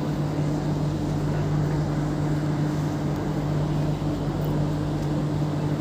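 Steady low electrical hum of a Dubai Metro train standing at the platform, with two constant low tones held evenly throughout.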